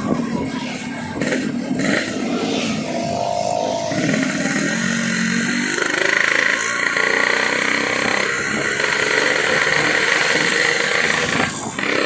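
Yamaha RX-King two-stroke single running through a hollowed-out 'bobokan' exhaust as the bike is ridden. Its pitch shifts up and down over the first few seconds, then settles into a steadier, noisier rush.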